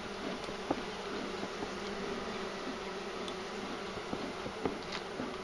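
Steady buzzing of many honeybees around an opened hive, the colony stirred up by the inspection. A few short sharp clicks sound over it, about a second in and near the end.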